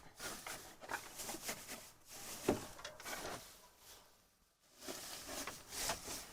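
Irregular light knocks and rustling, with a short lull about two-thirds of the way through.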